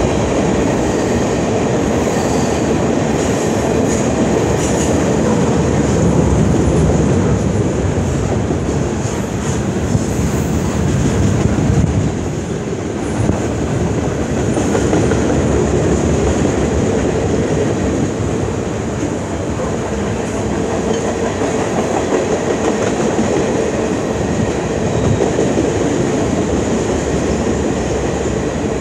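Freight train of tank cars and boxcars rolling past: a steady rumble of steel wheels on the rails, with occasional clanks.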